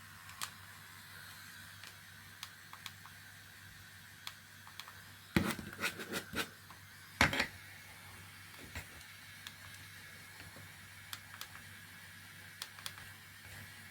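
Light clicks and taps of hard plastic being handled while welding 3D-printed mask pieces with a 3D pen, over the pen's faint steady hum. A few louder knocks come just past the middle.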